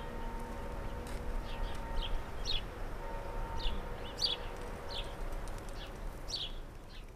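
Small birds chirping outdoors in short, high, downward-sliding notes that repeat irregularly every half second or so, over a faint steady hum.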